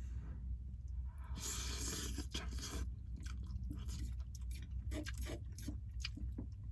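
A person eating a bowl of ramen noodles: a longer noisy stretch about a second and a half in, then chewing with many small mouth clicks.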